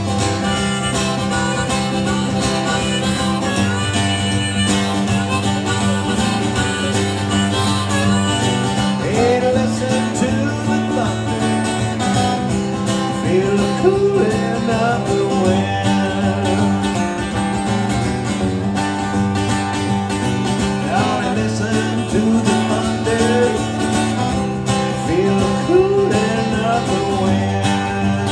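Live country band playing an instrumental passage led by guitar, with a steady low line underneath and a lead part that bends its notes now and then.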